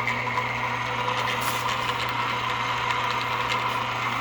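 Milling-head spindle of an Emco Maximat Mentor 10 lathe-mill combination running steadily under its electric motor, a constant mechanical hum with a whine on top.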